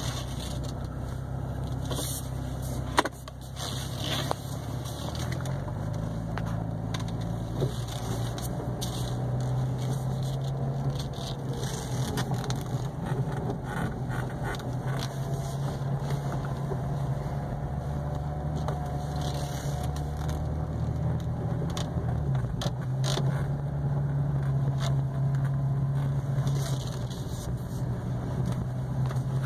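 Cadillac ATS's direct-injected V6 engine running as the car moves off and drives at low speed, heard from inside the cabin, its note stepping up and down with the gear changes. A sharp click about three seconds in.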